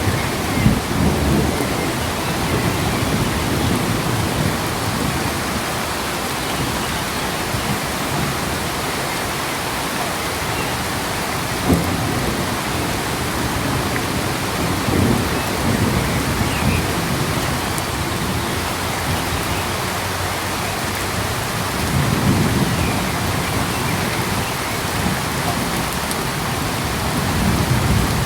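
Steady heavy rain, with low rumbles swelling up several times and one sharp tap about twelve seconds in.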